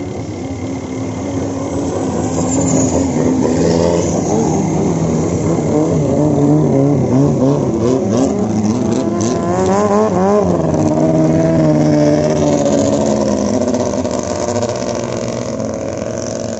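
Longtail boat's big common-rail diesel engine running hard. It grows louder a couple of seconds in, its pitch dips and climbs again about ten seconds in, and it fades near the end.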